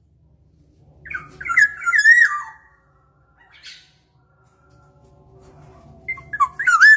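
Black-naped oriole calls: two fluty, whistled phrases that swoop up and down in pitch, the first about a second in and the second near the end.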